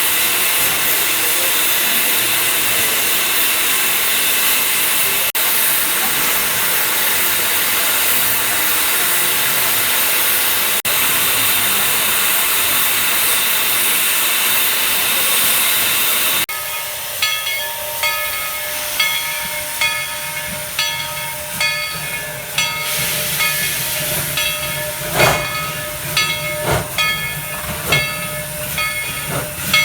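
Narrow-gauge steam locomotive venting steam in a steady loud hiss. About halfway through, the sound switches abruptly to quieter locomotive sounds with several ringing tones and a few sharp knocks.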